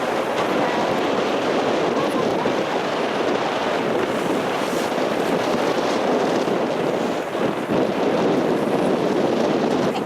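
Steady rush of wind buffeting the microphone aboard a boat at sea.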